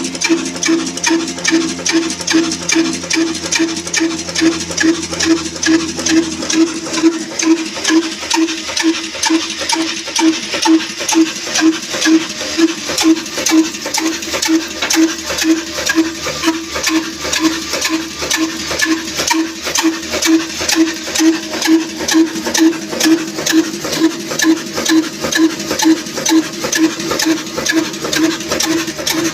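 Old Ruston diesel oil engine running at a slow, steady speed with an even beat, about two beats a second.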